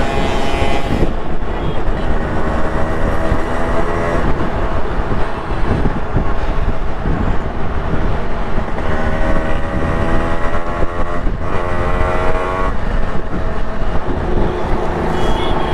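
Yamaha RX100 two-stroke single-cylinder engine running under way, its pitch climbing as it revs up through a gear, once up to about a second in and again from about 9 to 13 s, where it drops off sharply. Heavy wind rumble on the microphone from riding.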